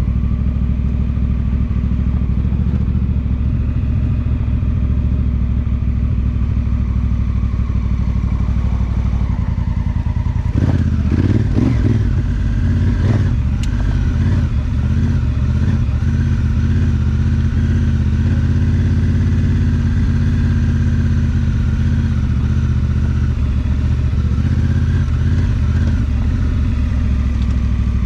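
A 2018 Honda Africa Twin's parallel-twin engine runs steadily while the bike rides a dirt track. About ten seconds in there are a few seconds of louder knocking and clattering.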